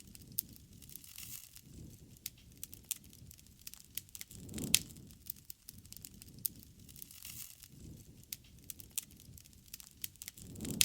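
Wood campfire crackling with frequent sharp pops, one loud pop about halfway through, over a low rumble of the flames that swells and fades every few seconds.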